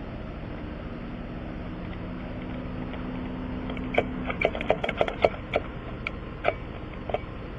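A steady low hum with a faint pitched drone that stops about four seconds in, followed by a quick run of sharp clicks and taps.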